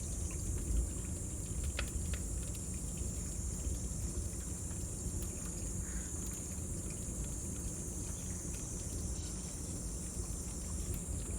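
Cicadas singing in a steady high-pitched drone, over the low rumble and occasional faint crackles of a wood fire.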